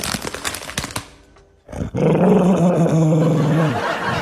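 Crinkly clicking for about a second, then after a brief gap a dog growls in long, steady, drawn-out notes.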